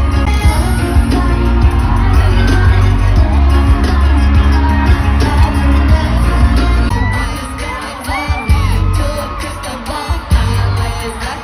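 Loud live pop music with singing over a stadium sound system, a heavy bass beat that drops away about seven seconds in while the vocals carry on.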